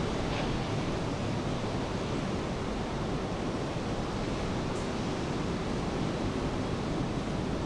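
Rain falling by the sea, with ocean surf: a steady, even wash of water noise.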